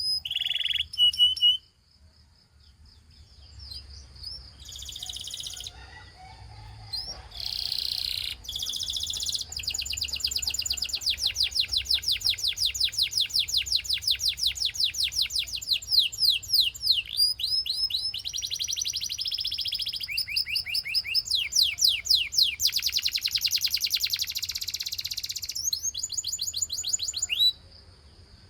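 Gloster canary singing: a few separate chirps and short phrases at first, then from about ten seconds in one long song of fast trills, rapidly repeated sweeping notes that change speed and pitch from phrase to phrase, breaking off suddenly near the end.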